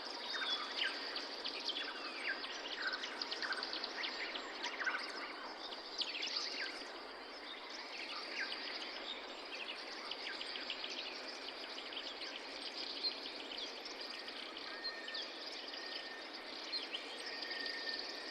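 Forest birds chirping and singing, many quick overlapping calls over a steady noisy hiss, with one held high note near the end.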